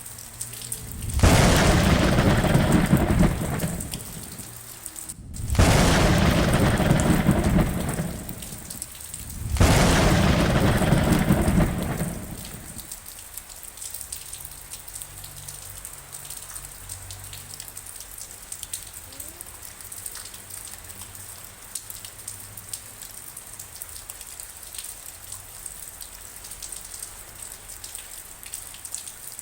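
Steady rain with three loud rumbles of thunder in the first half, each lasting about three seconds, then rain alone.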